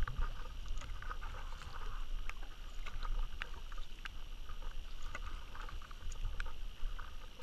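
Kayak paddling: water splashing and dripping in small irregular splashes as the paddle works, over a steady low rumble.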